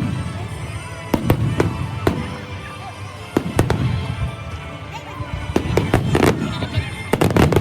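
Fireworks display: aerial shells bursting in a steady string of sharp bangs, some in quick clusters toward the end, over a continuous low rumble.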